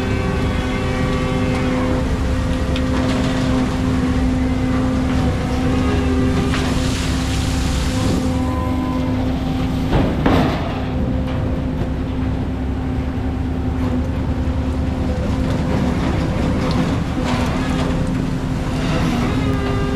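Prawn trawler's engine running steadily under way while towing its trawl, a constant drone with a steady hum, and one sharp knock about halfway through.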